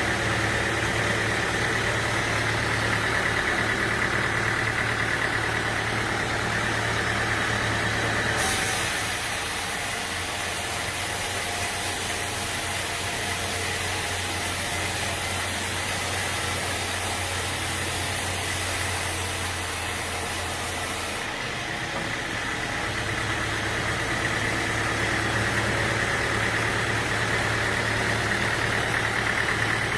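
An engine running steadily at a constant speed, with a low, even hum. About eight seconds in the sound changes abruptly to a lower hum with added hiss, and it changes back about twenty-one seconds in.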